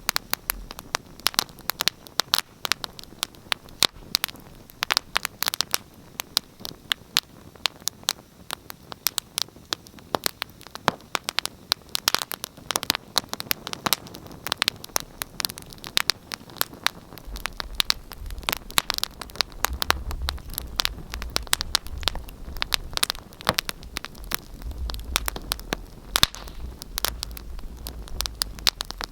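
Wood fire crackling in a fireplace: irregular sharp pops and snaps over a soft hiss. A low rumble joins a little past the halfway point.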